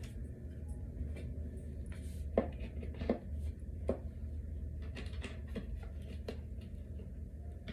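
Flat-pack dresser parts being handled during assembly: scattered light knocks and clicks, with three louder ones in the middle, over a steady low hum.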